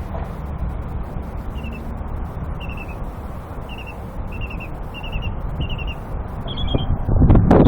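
A songbird singing a series of short, high, downslurred notes, repeated about once a second, over a steady low rumble. Near the end, loud wind noise hits the microphone.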